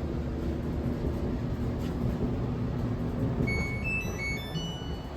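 Clothes dryer running with a steady low hum. About three and a half seconds in, a quick series of short electronic beeps at several pitches sounds from the appliance's control panel.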